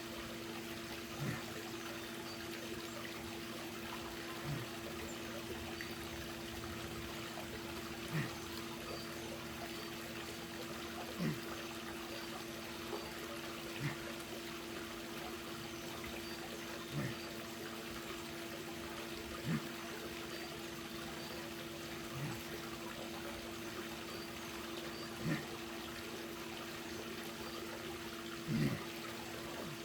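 Pool water trickling and lapping, with a short louder swish about every three seconds over a steady low hum.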